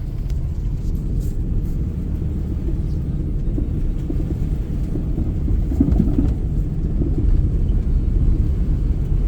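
Steady low rumble of a vehicle driving, engine and tyre noise heard from inside the cab, swelling slightly about six seconds in.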